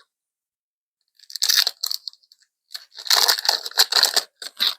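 Foil trading-card booster pack wrapper crinkling and tearing open, in two spells of crackling, the second longer and louder.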